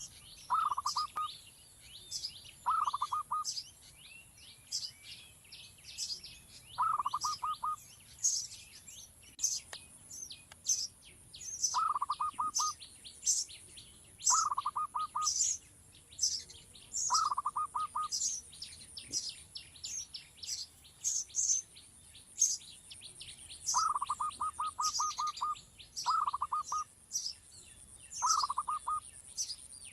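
Small birds chirping without pause: quick high chirps throughout, broken every few seconds by short trains of rapid, lower repeated notes.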